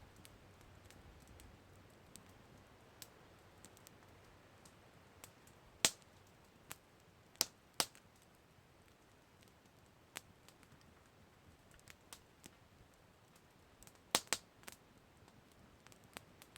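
Campfire crackling: burning wood giving scattered sharp pops and snaps over a faint hiss, with the loudest pops about six, seven and a half, and fourteen seconds in.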